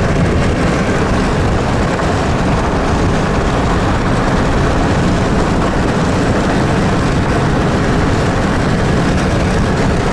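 Steady rushing noise inside a running vehicle's cabin, without a break or change.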